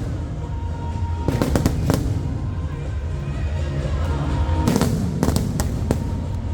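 Aerial fireworks bursting in two clusters of sharp bangs, about a second in and again near five seconds, over a continuous low rumble, with music playing throughout.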